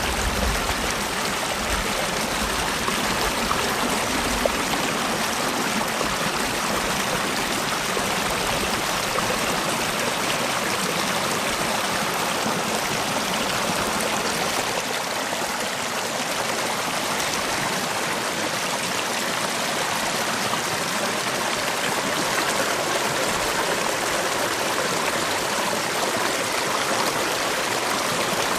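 Mountain valley stream running over rocks: a steady, unbroken rushing and babbling of water.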